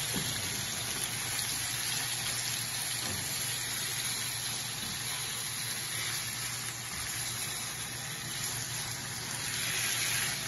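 Diced raw chicken sizzling steadily in hot oil in a frying pan as it is stirred and fried.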